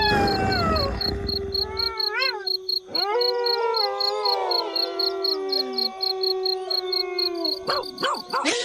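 Several wolves howling together in a chorus: long, overlapping calls at different pitches that slide up and down. Behind them insects chirp steadily in an even, high pulse, and a low rumble stops about two seconds in.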